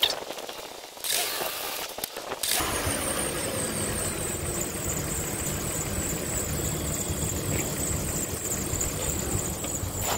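2009 Dodge Journey's engine cranking for about a second and a half, then catching and settling into a steady idle with a thin high whine over it. The starter had only clicked on the tries before, which the mechanic takes for a weak starter.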